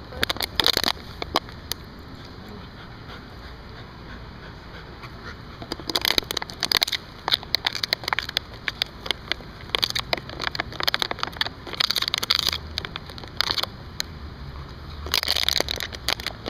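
A St. Bernard puppy chewing and pawing a plastic bottle, which crackles and crinkles in bouts of sharp clicks with quiet gaps between them.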